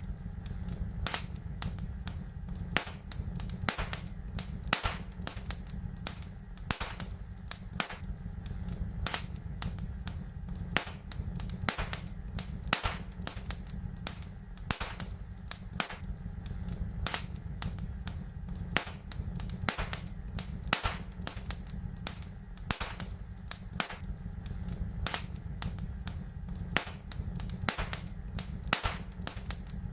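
Wood fire crackling in a fireplace: sharp pops and snaps come a few times a second, some louder than others, over a steady low rumble.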